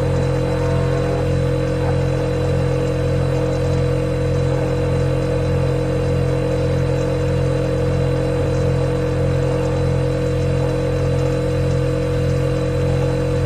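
Refrigerator compressor running with a steady, unchanging low hum and a fixed higher tone above it.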